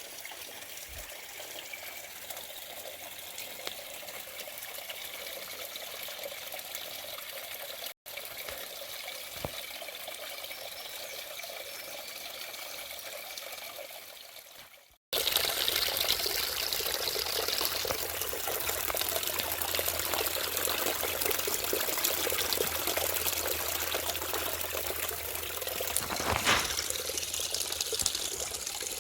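Running water of a creek, a steady trickling rush that breaks off abruptly twice and comes back louder and fuller for the second half.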